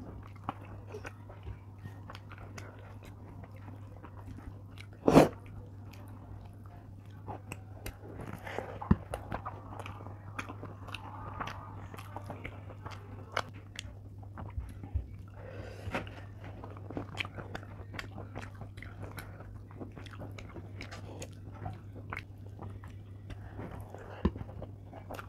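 Close-miked chewing and mouth sounds of a person eating rice and curry by hand, with many small wet clicks and smacks. One much louder knock about five seconds in, over a steady low hum.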